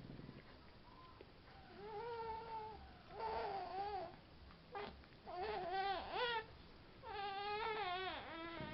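High, wavering vocal cries, drawn out and repeated about four times, each lasting around a second.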